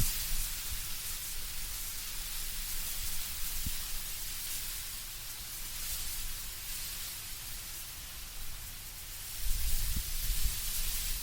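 Wind blowing through autumn trees with leaves rustling as a steady hiss, and a low rumble of gusting wind that rises near the end.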